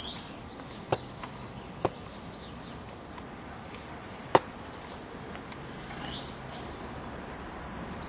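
Two short rising bird chirps, one near the start and one about six seconds in, over a steady background hiss. Three sharp clicks stand out, about one, two and four seconds in, the last the loudest.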